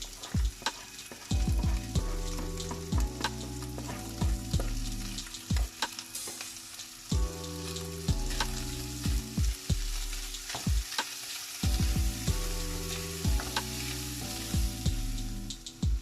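Chopped chicken sizzling as it fries in a hot pan, stirred and chopped with a utensil that knocks sharply against the pan many times. Underneath is background music with a low bass line.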